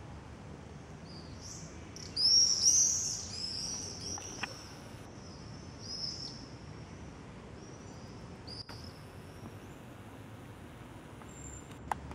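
A songbird sings a quick run of high chirping notes about two seconds in, then a few fainter chirps follow, over steady low outdoor background noise.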